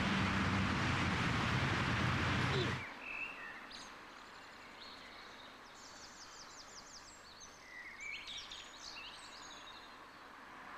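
A loud steady rush of noise with a low hum that cuts off suddenly about three seconds in, followed by quiet outdoor background with small birds chirping, including a rapid trill about six seconds in.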